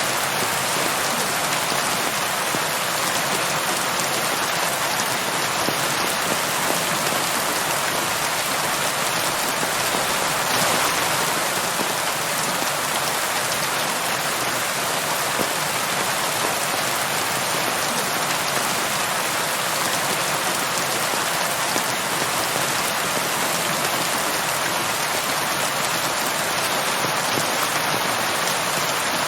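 Steady rain falling on surfaces, a dense even hiss of many drops with no thunder, swelling slightly about ten seconds in.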